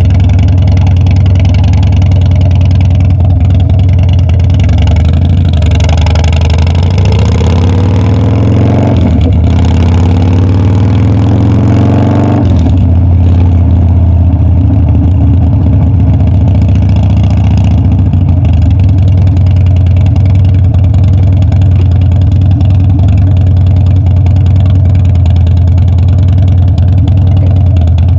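Harley-Davidson Dyna's V-twin engine running steadily, then climbing in pitch twice from about six seconds in, with a dip between the climbs as it changes gear. About twelve seconds in, the note changes abruptly and settles back to a steady, even drone.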